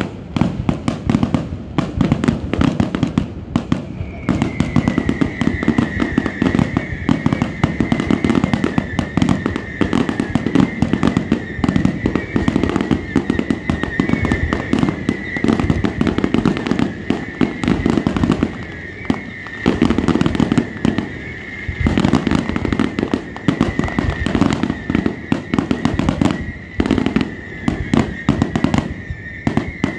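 Fireworks display: a rapid, continuous barrage of bursting aerial shells, many bangs a second. A steady high whine joins about four seconds in and holds.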